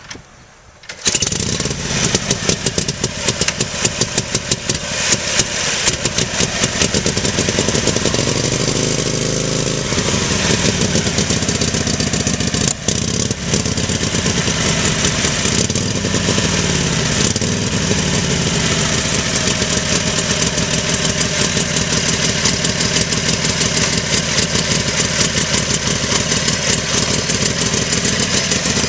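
1941 Harley-Davidson EL Knucklehead's 61 cubic inch V-twin starting from cold on half choke and quarter throttle. It catches about a second in and runs with an even beat. The revs rise and fall a few times and it falters briefly near the halfway point, then it settles into a steady idle.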